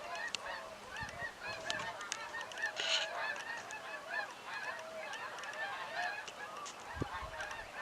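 A flock of birds calling at once: a dense, continuous chorus of short, overlapping calls.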